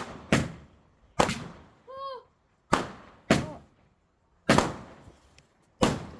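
Fireworks going off: about seven sharp bangs in six seconds, irregularly spaced, each followed by a short fading echo.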